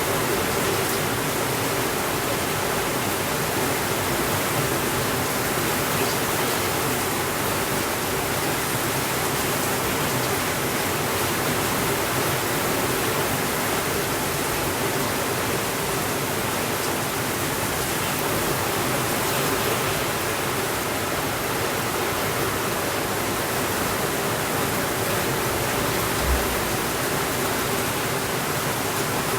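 Steady, even rainfall hiss with no pauses or changes, and a single soft low thump near the end.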